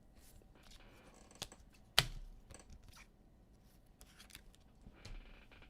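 Trading cards and pack wrappers being handled: faint rustling and sliding of cards and foil, with a sharp click about two seconds in.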